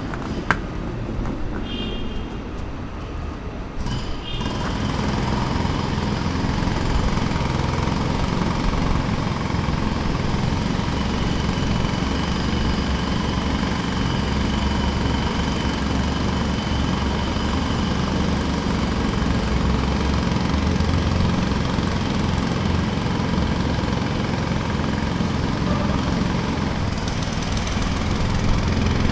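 Engine-driven construction machinery running steadily, with a sharp click near the start. The machinery steps up to a louder, steady run about four seconds in.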